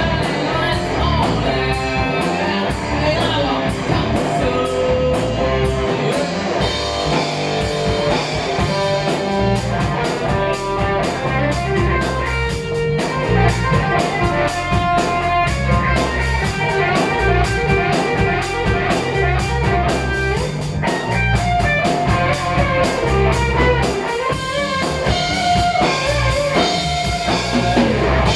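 Heavy metal band playing live: electric guitars over bass and a drum kit, an instrumental passage with no singing.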